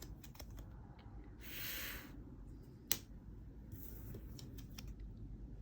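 Light clicks and taps of letter tiles being handled and set down on a table, with one sharper click about three seconds in. A brief hiss about one and a half seconds in.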